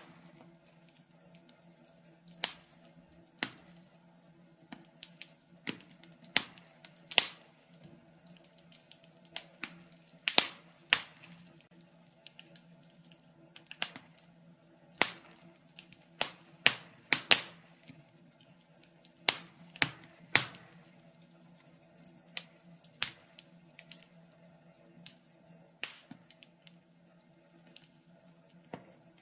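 Wood fire in a fireplace crackling, with sharp irregular pops coming singly and in quick clusters, over a faint steady low hum.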